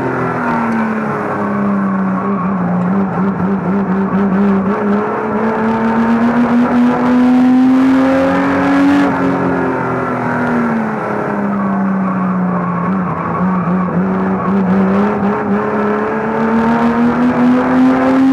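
Banger racing car's engine, heard from inside its cabin at racing revs, the pitch dropping as it slows into a bend and climbing again along the straight, twice over.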